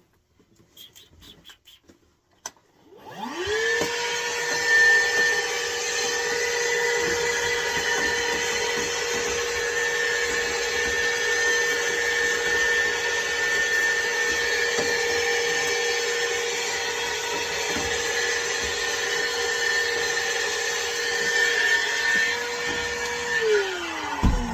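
An electric motor-driven fan spins up within about half a second, runs at a steady high hum with a rush of air for about twenty seconds, then winds down near the end.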